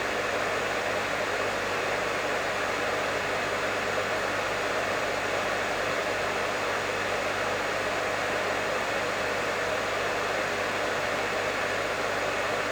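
Professional hair dryer running steadily: an even rush of blown air over a constant low motor hum.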